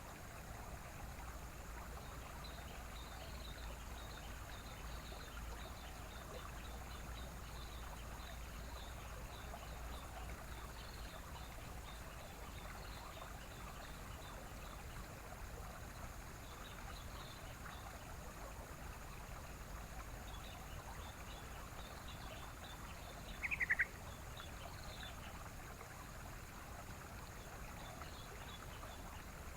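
Steady rushing of water like a stream, with faint, rapid high chirping running throughout. One short, brighter call rings out about two-thirds of the way in.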